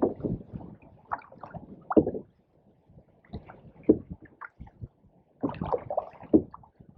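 Canoe paddle strokes in pond water, with gurgling and dripping off the blade, a stronger splash about every two seconds.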